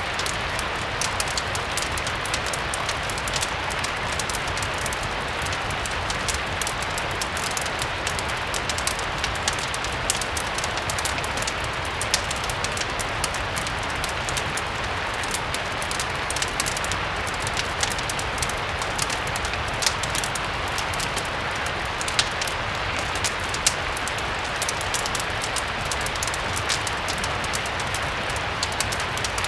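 Steady rain mixed with a crackling wood fire: an even hiss of rain with many small, sharp pops and crackles scattered throughout.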